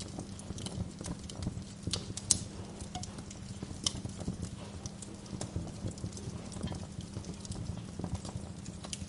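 Wood fire crackling in a fireplace: irregular sharp pops and snaps over a low steady rumble, with one louder pop a little over two seconds in.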